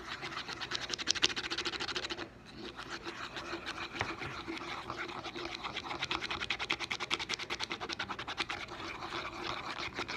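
Hand-soap and salt slime being stirred briskly in a container: a fast, rhythmic scraping of the mixing utensil, several strokes a second, with a short break about two seconds in. The mix is still liquid and just starting to thicken.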